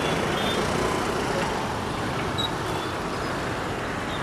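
Steady road traffic noise, a continuous wash of passing motor vehicles, with a couple of faint short high-pitched tones in it.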